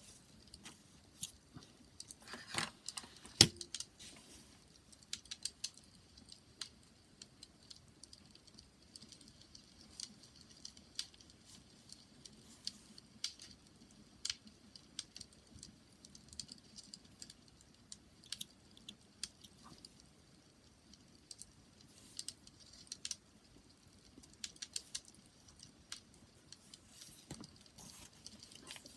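Wood fire crackling: scattered sharp pops and snaps over a faint low rumble, with the loudest pop about three and a half seconds in.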